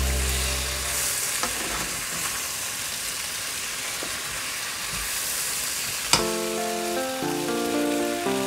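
Sliced potatoes sizzling in oil in a frying pan while a spatula stirs them, a steady hiss. Background music fades out in the first second, and a tune of short stepped notes comes in about six seconds in.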